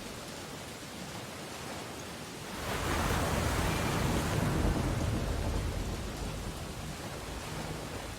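Ocean waves washing onto a beach: a steady hiss of surf, with one wave breaking about two and a half seconds in, swelling loudly and then slowly washing back down.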